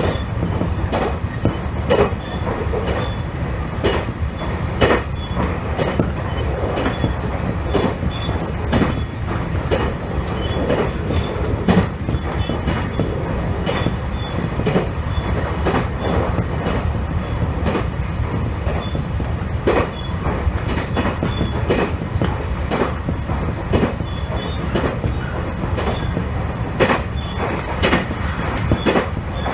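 Electric train running along the track: a steady rumble of wheels on rail, with the sharp click of wheels crossing rail joints every second or two.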